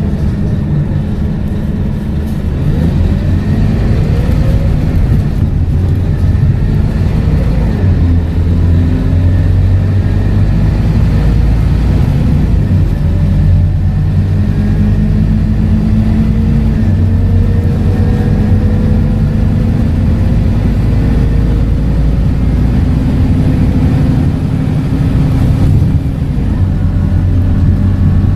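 Scania K230UB single-decker bus with a ZF automatic gearbox, its diesel engine running under way, with a rising whine a few seconds in as it picks up speed.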